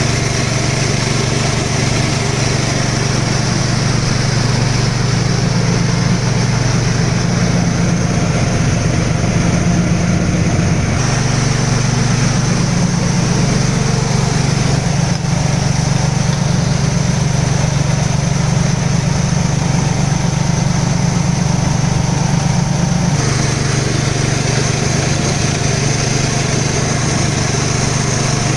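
Engine-driven rice husking and milling machine running steadily: a small engine's hum with the mill's mechanical noise over it. The sound changes a little twice, about eleven and twenty-three seconds in.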